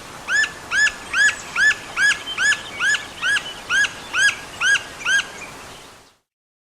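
A bird calls a steady series of about a dozen identical short, arched notes, roughly two and a half a second, over a faint background hiss. The sound cuts off suddenly near the end.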